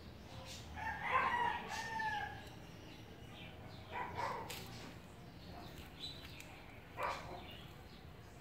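A bird calling: one drawn-out call about a second in that bends down at its end, then shorter, fainter sounds about four and seven seconds in.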